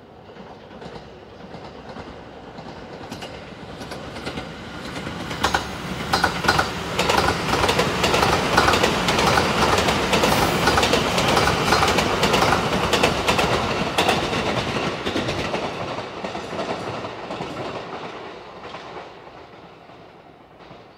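Sunrise Seto sleeper train, a 285 series electric multiple unit, passing at speed without stopping. Its running noise builds over several seconds and is loudest in the middle, with rapid clatter of the wheels over rail joints, then fades away.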